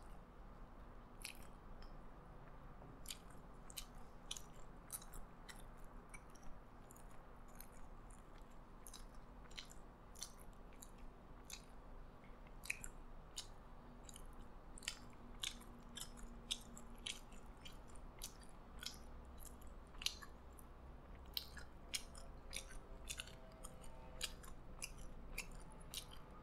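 Close-miked chewing of a McDonald's Prosperity Burger: soft, irregular wet mouth clicks, a few a second.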